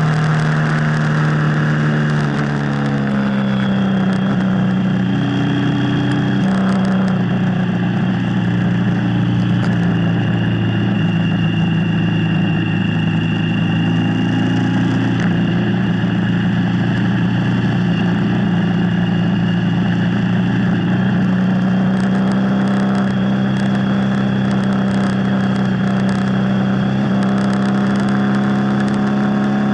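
Motorcycle engine running under way while riding, with a steady rushing noise underneath. Its pitch steps down about two to three seconds in, then holds steady.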